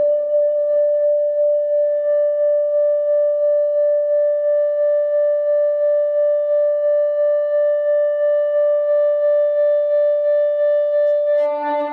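Electric guitar string driven by an EBow, played through delay and overdrive: one long held note that pulses evenly about three times a second. Near the end a lower and a higher note come in.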